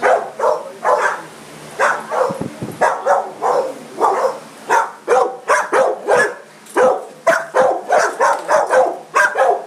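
Dogs in kennel runs barking over and over, about two to three barks a second without a break.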